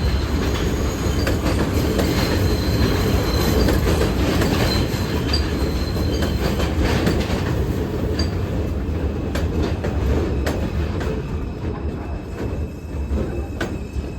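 New York City subway train running along the rails, a steady rumble of wheels on track with thin high wheel squeal in the first half. The rumble thins out and fades over the last few seconds as the train draws away.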